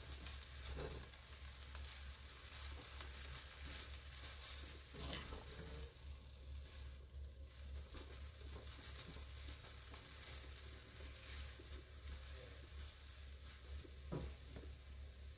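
Chwinamul (wild aster greens) sizzling in a frying pan as they are stir-fried, with a steady frying hiss and a few short scrapes of the stirring utensil.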